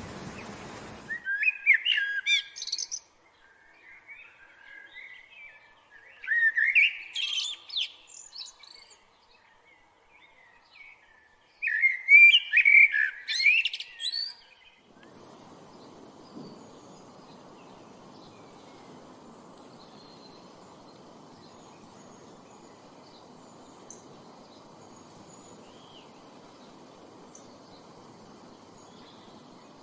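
A songbird singing three loud phrases of rapid chirps and trills a few seconds apart. About halfway through it gives way to a steady low outdoor hiss with faint, scattered bird chirps.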